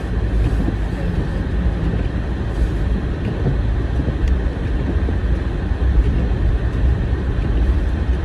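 Steady low rumble of a car driving slowly on a snow-covered road: engine and tyre noise heard from inside the cabin.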